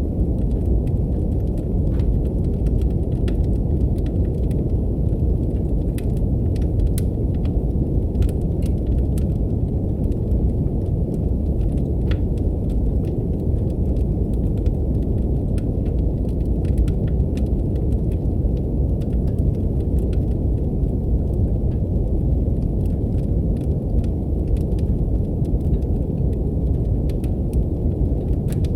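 Steady brown noise, a deep even rumble-like hiss, mixed with a fireplace's wood fire crackling in scattered small pops and snaps.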